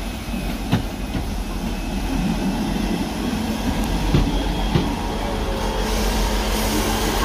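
Great Western Railway diesel multiple unit running past alongside the platform: a steady low diesel hum with a few sharp wheel clacks over the rail joints, growing gradually louder.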